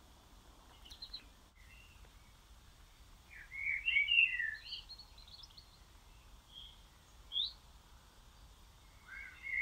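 Songbirds singing: scattered short chirps and twitters, with the busiest, loudest run of twittering about four seconds in and a single sharp call a few seconds later, over faint outdoor background noise.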